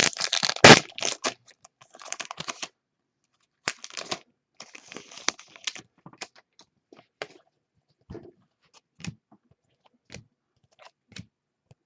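Trading-card pack wrappers crinkling and tearing open, then cards being handled with scattered light clicks and rustles. The crinkling is densest in the first second and thins out to single clicks toward the end.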